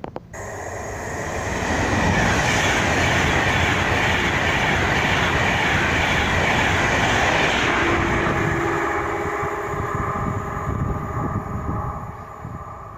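A train running past on the rails, its noise building over the first two seconds, staying loud, then dying away near the end, with steady high whining tones in its later half.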